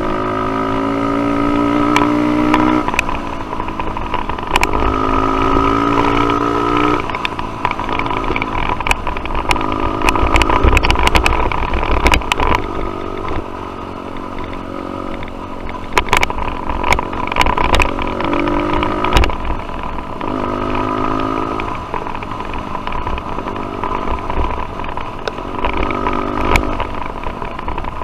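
Dirt bike engine revving up and shifting, its pitch climbing and then dropping at each gear change, several times over. Frequent sharp knocks and rattles run through it.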